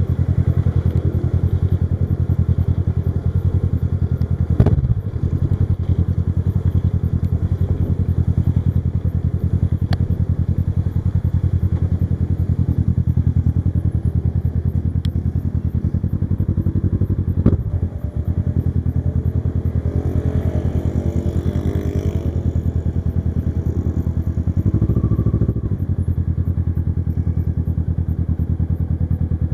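Kawasaki Versys 650's parallel-twin engine running steadily under way, with a short sharp sound and a brief dip in the engine note twice, about 5 and 17 seconds in.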